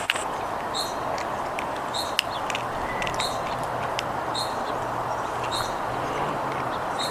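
A bird repeating a short, high call about once every second over a steady background hiss, with a couple of sharp clicks.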